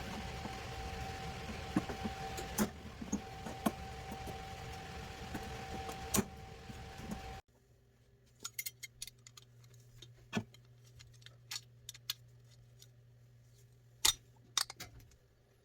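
Small sharp metal clicks and clinks. For the first half they sit over a steady machine hum with a held whine. About halfway through, the sound cuts abruptly to a quieter low hum with only sparse clicks.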